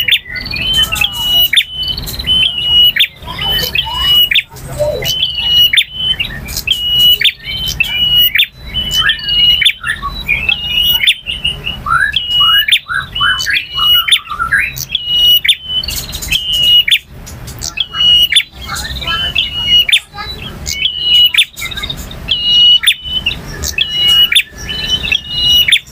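Male bar-winged prinia singing loudly. It gives fast runs of short, sharp, high notes on much the same pitch, with a quick series of lower rising notes about halfway through.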